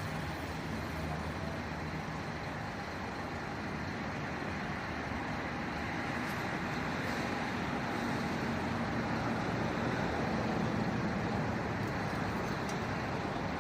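Steady motor-vehicle and road-traffic noise with a low engine hum, swelling slightly about ten seconds in.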